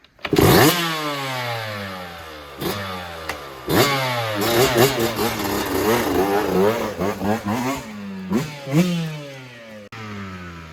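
Dirt bike engine catching just after the start, then revved up and down in a series of throttle blips, the pitch rising and falling several times before it drops to a lower, steadier running near the end.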